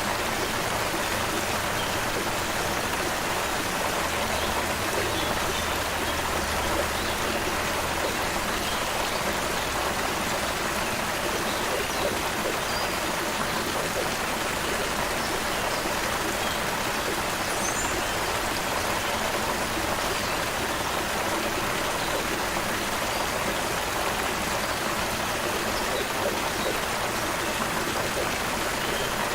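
Creek water running steadily over rocks, an even rushing and babbling with no change in level. A few faint, short, high bird chirps sound briefly around the middle.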